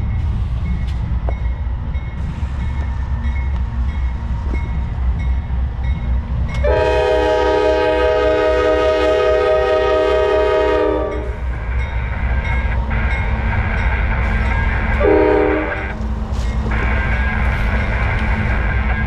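Freight train rolling past with a steady low rumble, its locomotive horn sounding several notes together: one long blast of about four seconds about a third of the way in, and a short blast about three-quarters through.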